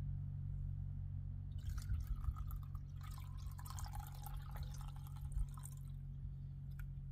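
Old engine coolant being poured slowly back into a truck's cooling system through a t-shirt used as a filter, dripping and trickling, busiest from about a second and a half to six seconds in, over a steady low hum.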